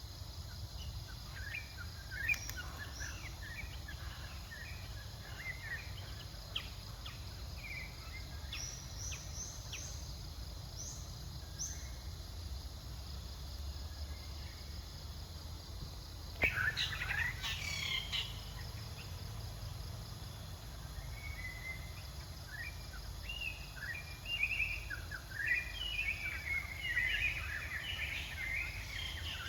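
Outdoor natural ambience: scattered short, high chirping calls, with a louder cluster a little past halfway and busier calling near the end, over a steady high insect hum and a steady low rumble.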